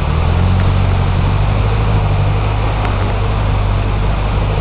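A vehicle engine running steadily, a low droning hum under an even rushing noise.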